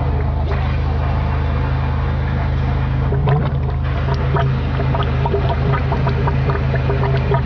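High-pressure drain jetter running steadily, its motor-driven pump humming, with water rushing and scattered short clicks and knocks from about three seconds in, as the jet clears a clogged drain pipe.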